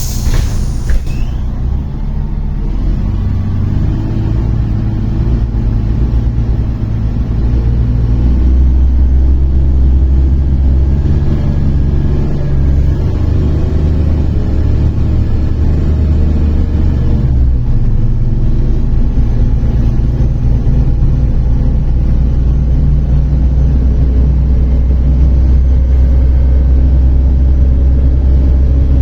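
Diesel engine of a MAZ-103 city bus heard from inside the passenger cabin as the bus pulls away and drives on, a low steady hum that grows louder over the first several seconds. A pneumatic hiss fades out about a second in, and the engine note breaks and shifts briefly a little past halfway.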